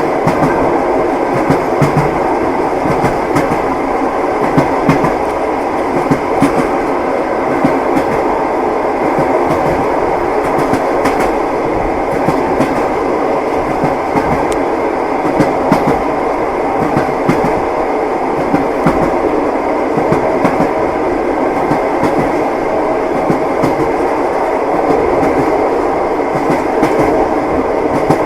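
Passenger train in motion, heard from inside a carriage: the steady rumble and clatter of the wheels on the rails, with frequent clicks over the rail joints.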